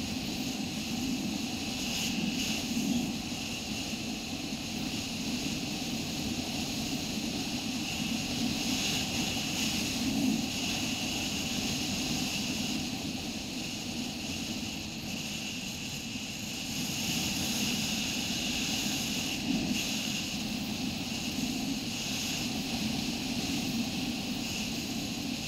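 Motorcycle engine running steadily while riding, with a smooth drone that swells and eases a little.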